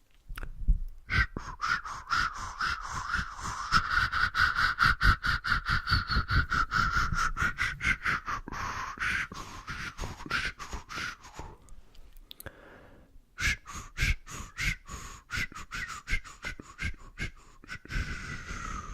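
Close-up ASMR mouth sounds: rapid clicks and pops, several a second, with a brief pause about two-thirds of the way through.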